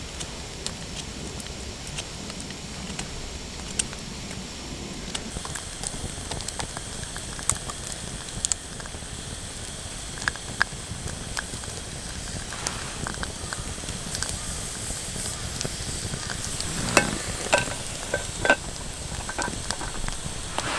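Campfire burning with a steady hiss and scattered crackles, with a few sharper pops near the end.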